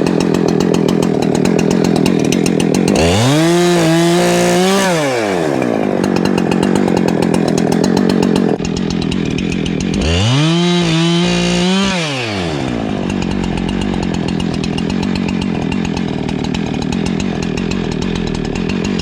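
Husqvarna two-stroke chainsaw running while limbing a fallen tree; the engine is revved up to high speed, held, and let back down twice, about three and ten seconds in.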